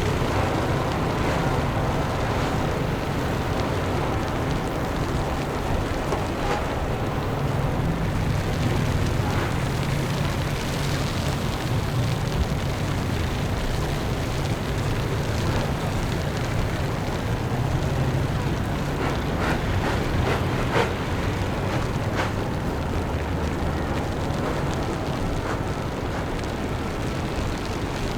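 Steady city street ambience in the snow: a continuous low rumble of traffic and engines with wind, and a few faint brief ticks about two thirds of the way through.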